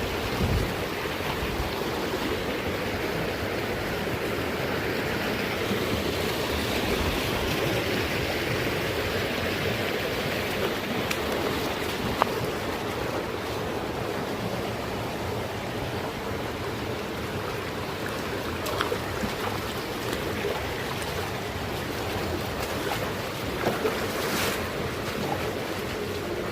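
Mountain water rushing steadily, with a few faint ticks now and then.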